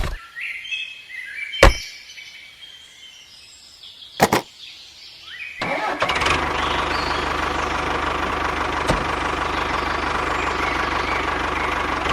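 A few sharp clicks, then about five and a half seconds in a small motor starts and runs steadily with an even hum.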